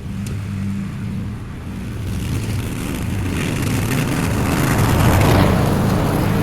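Lawn mower engine running steadily while cutting tall, overgrown grass. The cutting noise swells to its loudest about five seconds in.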